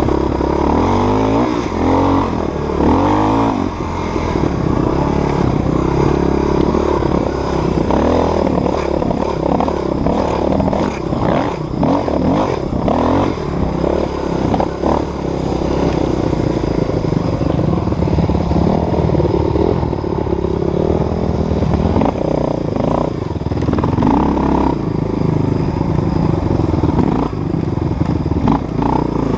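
Dirt bike engine revving up and down over and over while riding, with repeated clatter and rattling from the bike.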